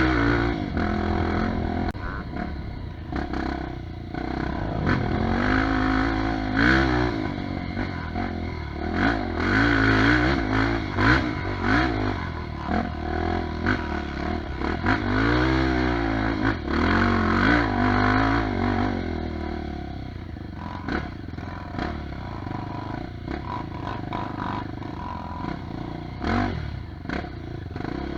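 Trail dirt bike engine revving up and down again and again over rough ground, with clattering knocks. It settles to a quieter, steadier run for the last several seconds.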